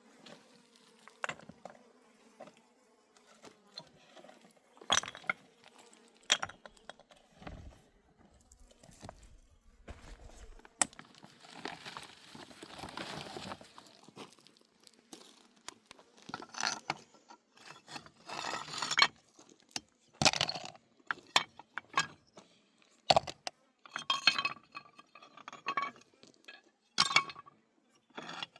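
Irregular clinks and knocks of small hard objects being handled, coming more often in the second half, with a few seconds of hissing noise a little before the middle.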